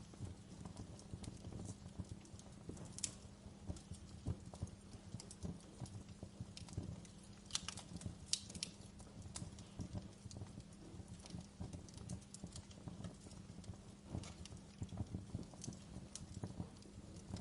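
Wood fire burning in a fireplace, crackling steadily over a low rumble, with scattered sharp pops, a few of them louder about three seconds in and again around eight seconds in.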